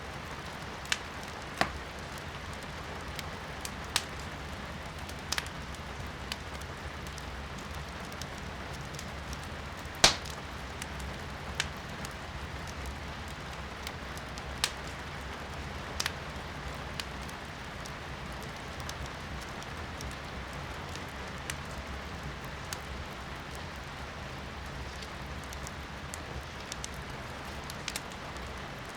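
Wood fire crackling in a fireplace, with sharp irregular pops, the loudest about ten seconds in, over a steady hiss of rain heard from indoors.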